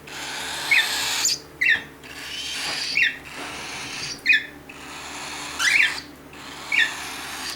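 Cockatiel chick giving raspy begging calls, about one a second: each a hissing rasp that ends in a short sharp chirp, six in a row.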